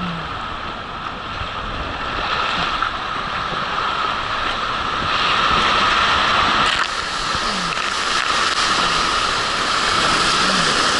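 Steady rush of water running down a water slide, with wind noise on the microphone, growing louder about five seconds in.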